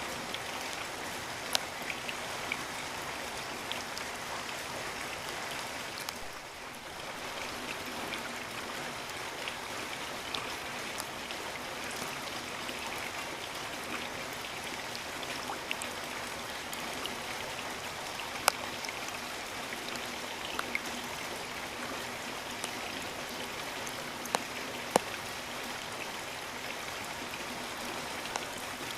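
Steady rain falling, an even hiss with scattered sharp drops landing close by; it eases briefly about six seconds in.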